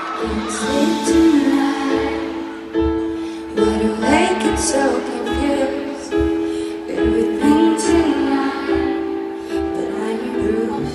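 Live concert music heard from the audience: the slow intro of a pop ballad, with held keyboard chords over a low repeating pulse and crowd voices rising over it now and then.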